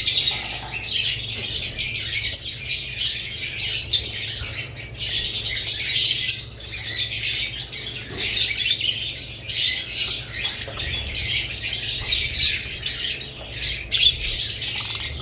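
A flock of budgerigars and lovebirds chattering, with many short, high chirps and squawks overlapping without pause.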